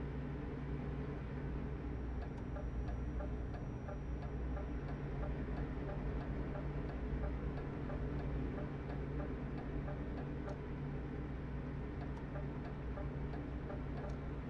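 A turn-signal indicator ticking in a truck cab, about two clicks a second, starting a couple of seconds in, over the steady low drone of the truck's engine.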